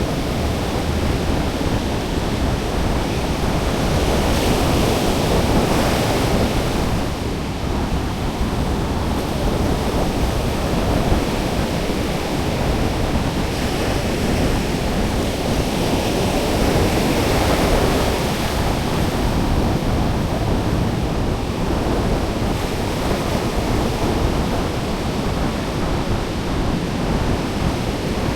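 Sea surf breaking and washing on a beach: a steady rushing that swells louder in slow surges. Wind rumbles on the microphone.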